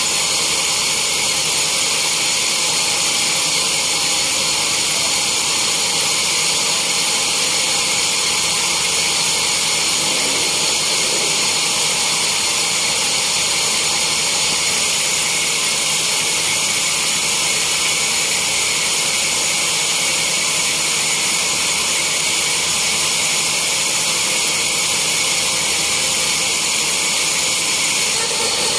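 Sawmill saw running steadily with a loud, high, even whine and hiss that does not change.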